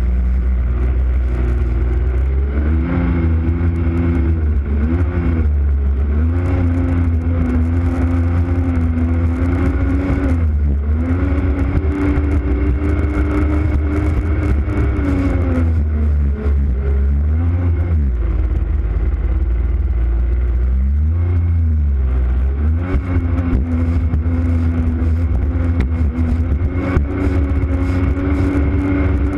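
Jet ski engine running at speed, its pitch steady but easing off and rising back several times (around 5, 10, 17 and 21 seconds in) as the throttle is let off and reopened, over a heavy continuous low rumble.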